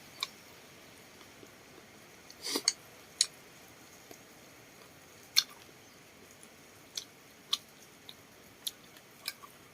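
People eating grilled duck: quiet chewing with about a dozen small, sharp clicks scattered irregularly through it.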